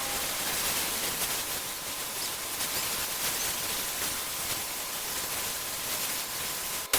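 Steady hiss of a paint spray gun spraying, with a single sharp click just before the end.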